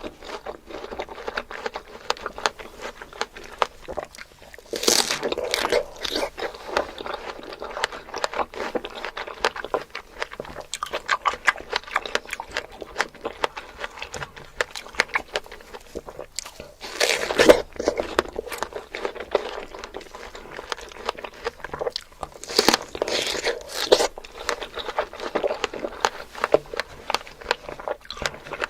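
Close-miked ASMR eating of fruit: crisp, crunchy bites and wet chewing. The loudest bites come about five seconds in, around seventeen seconds and around twenty-three seconds, with steady crackly chewing between them.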